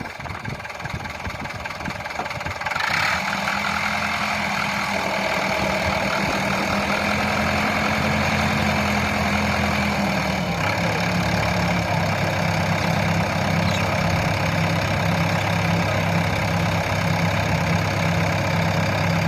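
Tractor engine running steadily, its note shifting lower about ten seconds in.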